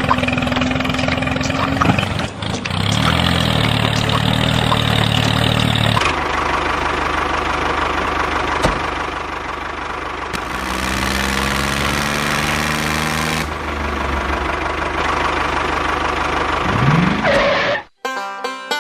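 Engine running in several abruptly cut segments, with steady tones in each and a rising rev shortly before the end.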